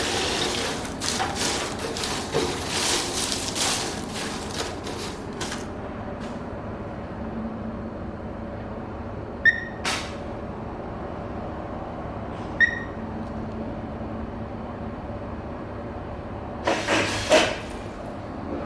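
Ishida semi-automatic computer weighing scale with lifter on a test run. A steady machine hum runs under two short electronic beeps about three seconds apart and a click, with a few seconds of clattering at the start and another short burst of clatter near the end.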